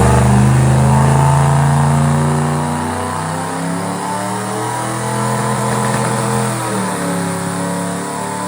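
A twin rear-mount-turbo NASCAR truck engine runs loud and steady at high revs on the dyno during a boost spool test. It is held against the transmission brake to build boost while dump valves are set to keep it in boost. The engine pitch sags slightly about three seconds in and again near the end.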